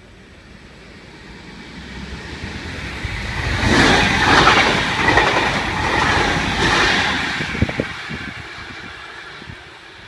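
V-set double-deck electric intercity train passing at speed without stopping. The rush of wheel and rail noise swells to a peak about four seconds in, holds for a few seconds as the cars go by, then fades as the train runs off.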